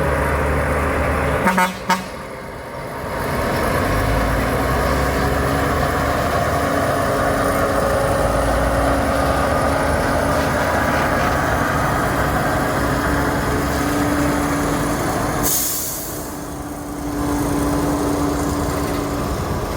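Heavy truck engine running steadily, with two short horn toots about a second and a half in and a brief burst of hiss about fifteen seconds in.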